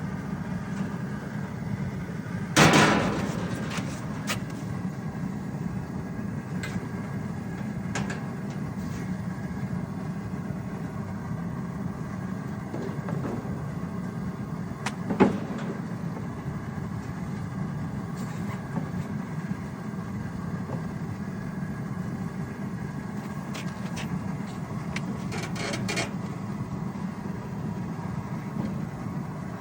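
Wooden hive boxes being handled at a hot wax dipping tank: a loud clank a few seconds in with a short hiss after it, a sharp knock midway, and a clatter of knocks near the end, over a steady low rumble.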